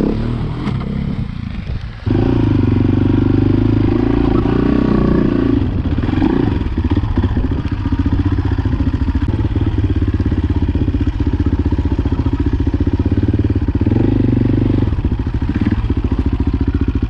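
Motorcycle engine running, picking up sharply about two seconds in and then running steadily.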